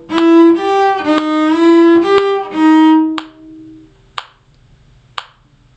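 A violin playing a short bowed phrase of about six notes around E, G and D sharp, a learn-by-ear call for students to echo. The phrase ends about three seconds in, followed by three sharp clicks about a second apart.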